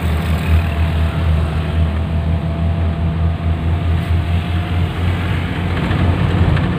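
A 1986 Suzuki Carry being driven, its engine and road noise making a steady deep rumble.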